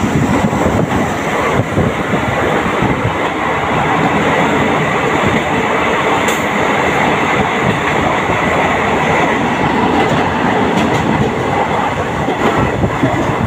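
Passenger train running along the track, heard from inside the coach: a loud, steady rumble and rattle of the wheels on the rails, with one sharp click about six seconds in.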